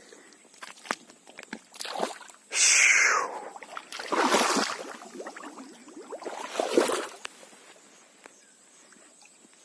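Water splashing and sloshing in four short surges, the loudest about two and a half seconds in and again around four to five seconds, with faint ticks in between.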